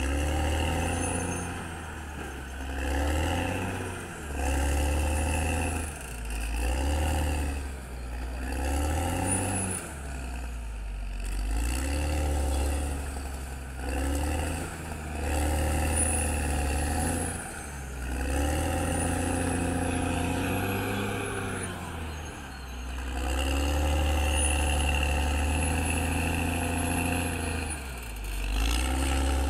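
Caterpillar D6R XL bulldozer's diesel engine working, its speed rising and falling over and over, about every two seconds. A faint high whistle rises and falls with some of the surges.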